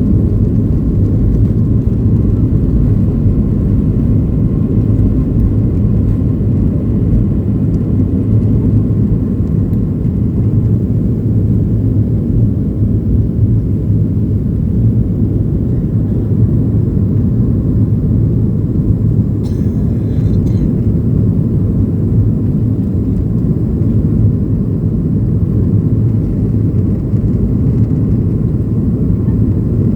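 Boeing 737-800's CFM56 jet engines running with a steady low rumble. There is a brief faint click about two-thirds of the way in.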